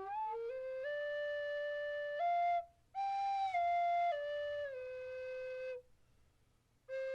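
Flute playing a slow melody of held notes that step up and down, breaking off briefly about two and a half seconds in and for about a second near the end.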